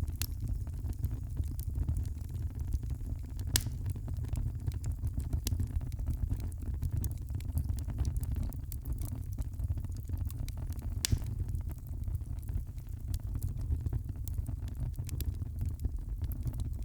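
Wood fire burning in a fireplace: a steady low rumble of flames with constant light crackling and two sharper pops, one a few seconds in and one past the middle.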